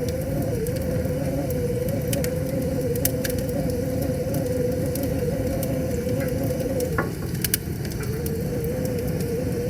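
Wood fire crackling with scattered sharp pops, several of them close together about seven seconds in, over the steady rush of river water and a wavering hum.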